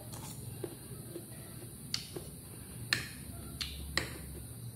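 Close-up eating sounds: chewing a mouthful of lettuce salad, with several sharp smacking clicks in the second half.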